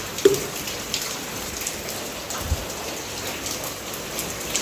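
Heavy rain falling steadily, with scattered drops pattering close by and a couple of brief knocks, one just after the start and a low thump about halfway through.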